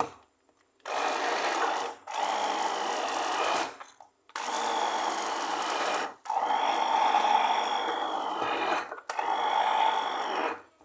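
Electric blender motor run in five bursts of about one to three seconds each, with brief stops between them. Its whine shifts a little in pitch as it churns.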